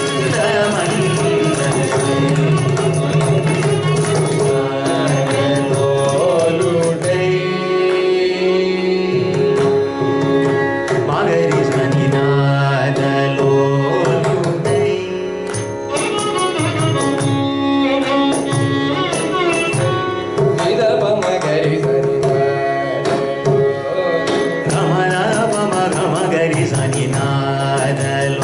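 Carnatic vocal music: a singer's melodic line over a steady run of mridangam strokes.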